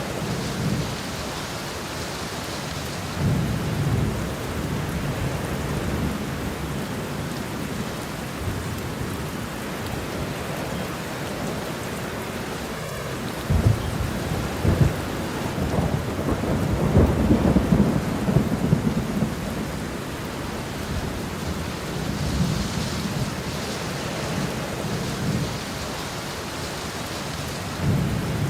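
Steady rainfall with rolling thunder: low rumbles swell several times, the loudest starting suddenly about halfway through and building for a few seconds before fading back under the rain.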